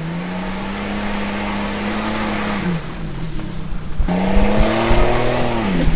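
A car engine revs up and holds at high revs for about two and a half seconds, then drops off. It revs up sharply again about four seconds in and holds until near the end, with knocks and thumps during this second run.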